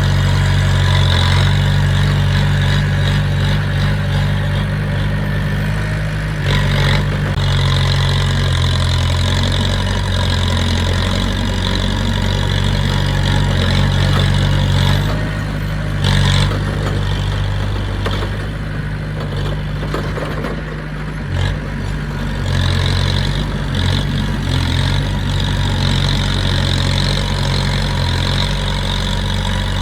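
Diesel engine of heavy earthmoving equipment running steadily, a low even hum that eases a little about twenty seconds in.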